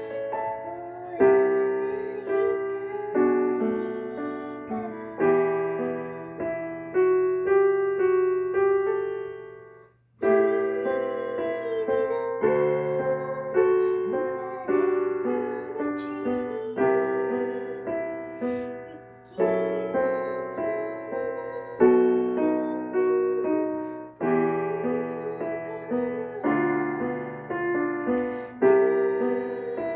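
Solo piano playing a slow melody over chords, each note struck and left to ring. It stops briefly about ten seconds in, then starts again.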